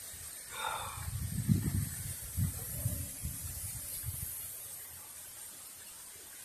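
Steady hiss of rain with gusts of wind buffeting the microphone in low rumbling surges during the first four seconds, easing off after that.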